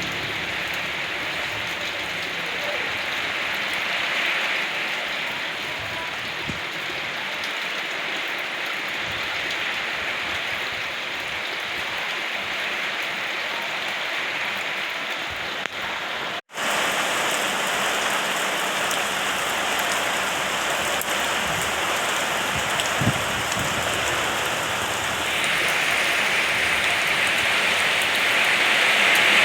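Steady rain falling, an even hiss of drops. It cuts out for an instant about halfway through and comes back slightly louder, then grows heavier near the end.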